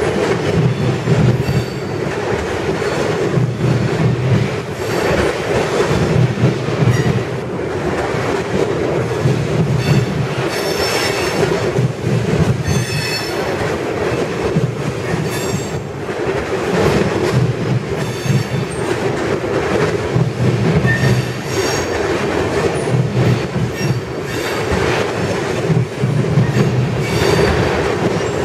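Freight train tank cars rolling past: a steady rumble of steel wheels on rail with clickety-clack, swelling about every two seconds as each car's wheel trucks go by. Brief high-pitched wheel squeals come and go.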